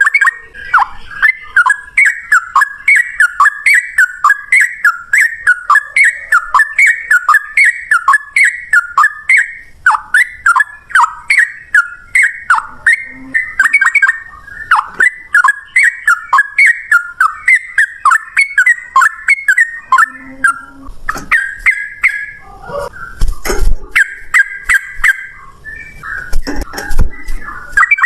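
Sooty-headed bulbul (trucukan) singing a long, rapid-fire run of short falling whistled notes, about three a second, in the continuous 'ropel' style. The run breaks off briefly near the end and resumes, with a few dull low thumps.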